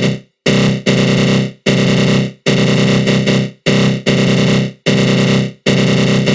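Synthesized 'attack growl' sound effect from FL Studio Mobile's GMS synth run through a flanger: a harsh, buzzy low growl with a fast flutter. It repeats in about six bursts, roughly one a second, each fading out into a brief gap.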